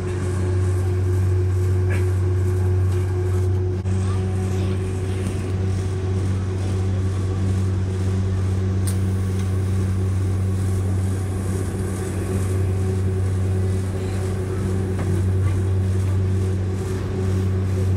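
Diesel multiple-unit passenger train running at speed, heard from inside the carriage: a steady low drone with a constant haze of rail and wind noise.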